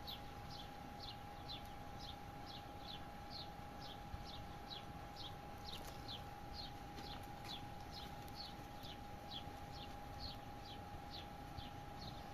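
A bird calling over and over, short high chirps that slide down in pitch, about three a second at an even pace, over a faint steady tone.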